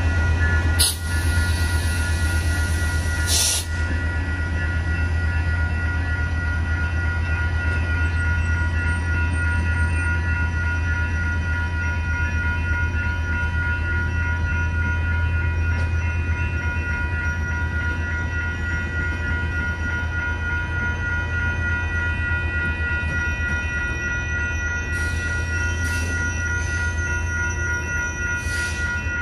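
Train running with a steady low diesel rumble and several steady high-pitched tones over it. Two sharp clicks come in the first few seconds.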